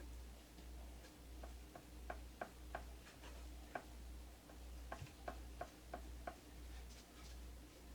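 Quiet, light ticking taps in short irregular runs of about three a second, over a low hum that pulses about twice a second.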